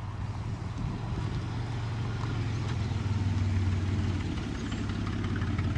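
A car engine running at low revs: a steady low hum that swells a little about three seconds in, then eases off.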